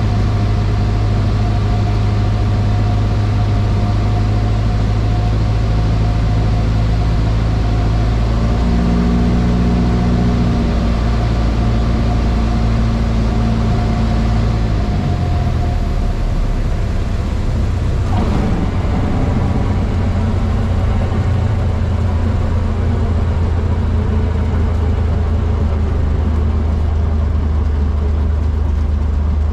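Cessna 152's four-cylinder Lycoming piston engine and propeller running steadily in the cockpit. About halfway through the engine note drops to a lower pitch as power is reduced.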